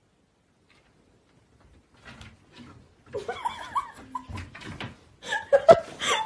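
Short high vocal calls that bend up and down, starting about three seconds in, then a single sharp knock just before the end.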